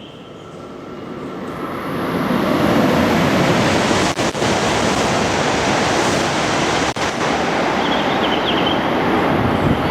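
Tohoku Shinkansen train passing through the station at high speed without stopping: a rushing roar of wind and wheels that builds over about two seconds, then stays loud, dipping briefly twice.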